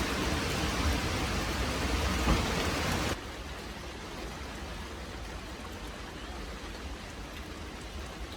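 Steady hiss of rain-like noise, with a single knock a little over two seconds in; about three seconds in it drops suddenly to a quieter, softer hiss.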